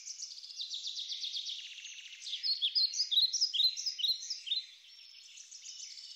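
Songbirds chirping and trilling, with a louder run of quick downward-sweeping chirps from about two to four and a half seconds in.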